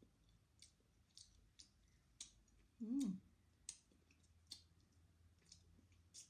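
Close-miked mouth sounds of someone eating with her fingers: wet lip smacks and chewing clicks, about one or two a second. A short hum in the voice comes about three seconds in and is the loudest sound.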